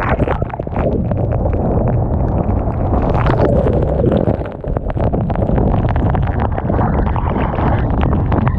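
Typhoon-strength wind buffeting the microphone in a constant heavy rumble, with the rush of storm-surge waves and a dense crackle of sharp hits throughout.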